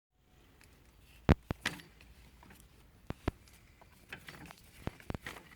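Sharp metallic clicks and knocks in small clusters of two or three, over a faint low background hum.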